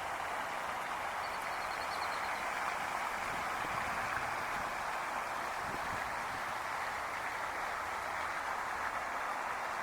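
Steady rushing of a flowing stream. A brief faint high trill comes in about a second in.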